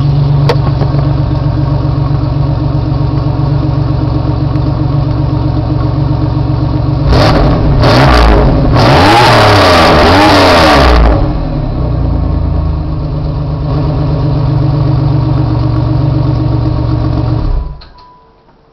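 A 1995 Camaro's 3.4L V6 idling through a 3-inch exhaust with the catalytic converter cut out and a Thrush Turbo muffler with dual outlets. About seven seconds in, the throttle is blipped twice and then held in a longer rev that rises and falls for about two seconds before the engine settles back to idle. The engine cuts off near the end.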